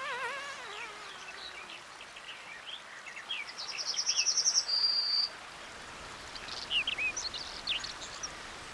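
Birdsong over a soft outdoor background, with several short chirps and calls. A wavering, falling call opens it, and about halfway through comes a quick high trill followed by a short held whistle.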